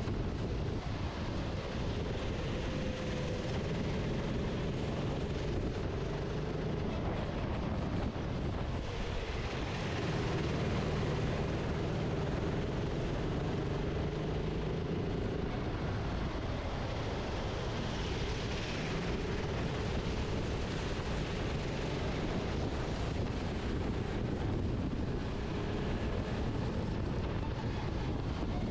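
Onboard racing kart engine running under load, its note rising and falling with speed through the corners, over a steady rushing hiss of wind and wet track.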